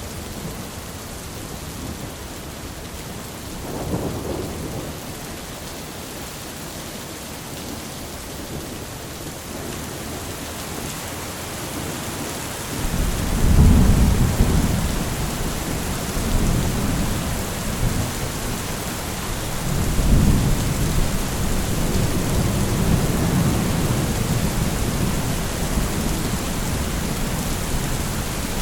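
Steady rain with thunder: a faint rumble about four seconds in, then a loud deep roll of thunder about halfway through and another a few seconds later, rolling on under the rain.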